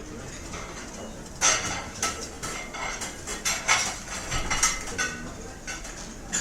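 Restaurant ambience: cutlery and dishes clinking in a run of sharp knocks and rings over a low background of diners' murmur.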